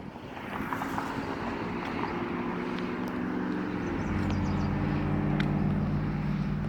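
Chevrolet Corvette C8 prototype's mid-mounted V8 running under way, a steady engine note over road noise. About four seconds in, the note drops slightly in pitch and grows louder.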